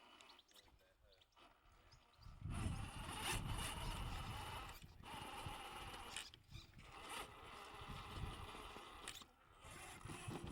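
Large 1/7-scale RC trail truck's electric drivetrain whining as it crawls over rough, rocky ground with scraping from the tyres. It starts about two seconds in and pauses briefly three times.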